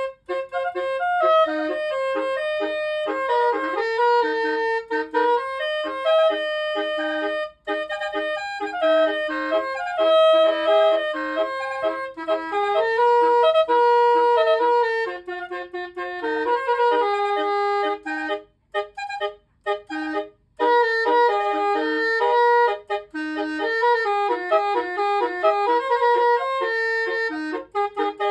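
Basuri-type multi-note vehicle horn playing a quick melody of reedy, clarinet-like notes, one note after another. It breaks off briefly a few times, most clearly for about two seconds about two-thirds of the way through.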